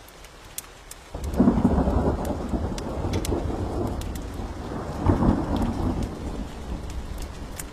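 Thunderclap breaking suddenly about a second in and rumbling on, swelling again around five seconds, over steady rain with scattered sharp drops.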